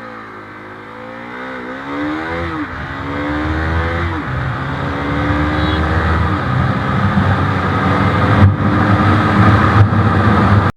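Bajaj Pulsar NS 200's single-cylinder engine accelerating hard through the gears: the revs climb, drop at an upshift about two and a half seconds in and again at about four seconds, then climb steadily. Wind noise grows as speed builds.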